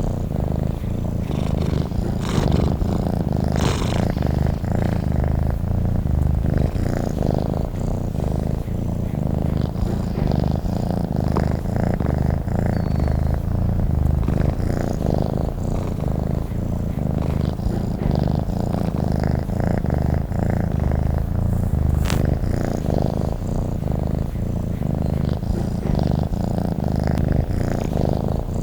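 Domestic cat purring steadily and continuously, a low rhythmic rumble with no break.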